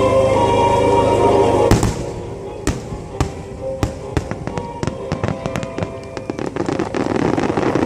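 Fireworks going off: a sharp bang about two seconds in, then a long run of crackling pops and bangs, over music played through loudspeakers.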